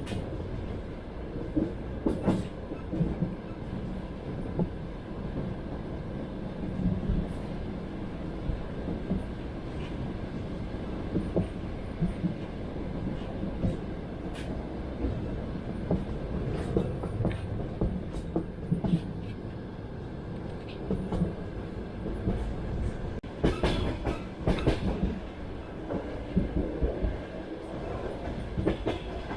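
Passenger train running on rails: a steady low rumble of the carriage, with wheels clacking over rail joints in groups, most thickly near the end.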